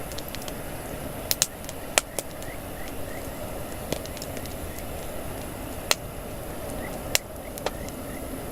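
Wood campfire burning with a steady hiss, its logs giving about eight sharp, irregular crackling pops, the loudest about two seconds in.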